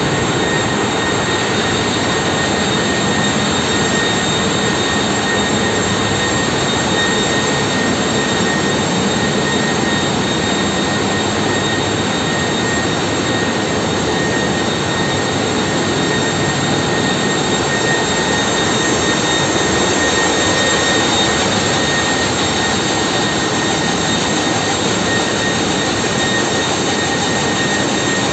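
Ship's engine room machinery running: a loud, steady mechanical noise with a constant high whine over it.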